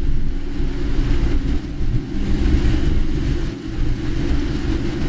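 Inside a moving car in rain: a steady low rumble of engine and road noise, with the hiss of wet tyres and rain over it and a brief lull about three and a half seconds in.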